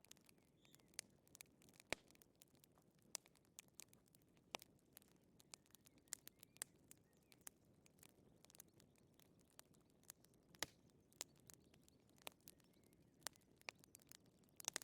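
Wood fire crackling in a fireplace: irregular small pops and snaps over a soft low hiss, with a couple of sharper pops about two seconds in and again past ten seconds.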